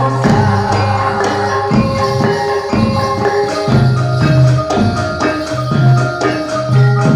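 Live jathilan music: hand drums and ringing gamelan-style metal percussion play a steady rhythmic accompaniment, with held pitched notes over repeated drum strokes.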